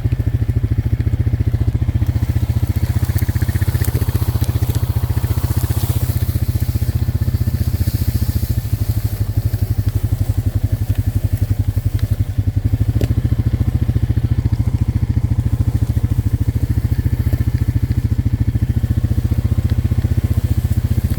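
Vehicle engine running steadily at an even speed, loud and close to the microphone.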